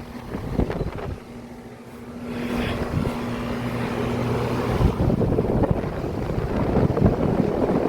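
Central air conditioner condensing units running outdoors: steady compressor hum with the whoosh of the condenser fans. The sound grows louder about two seconds in, and the hum shifts lower about halfway through.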